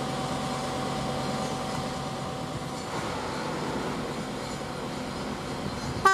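Steady rumble of an approaching train, with a thin steady whine that fades out about halfway through; a train horn cuts in loudly at the very end.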